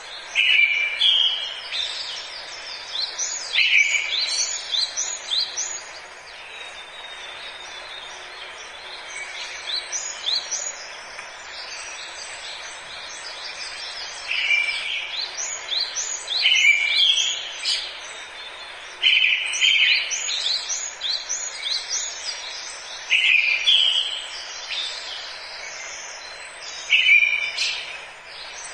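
Forest birds singing: bursts of quick, high, chirping notes every few seconds, with a few quieter seconds near the first third, over a steady background hiss.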